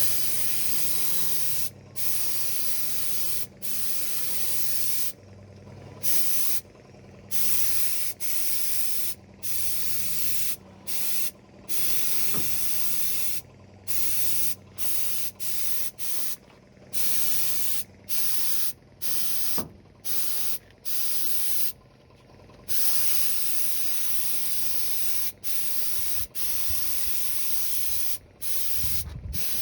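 Compressed-air paint spray gun hissing in a run of short bursts, cutting off and starting again every second or so as the trigger is pulled and released while paint is sprayed on.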